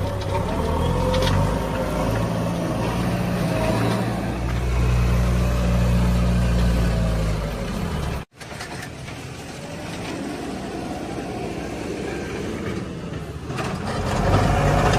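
Heavy diesel machinery running with a strong low engine drone. It breaks off abruptly about eight seconds in, then goes on quieter and grows louder again near the end.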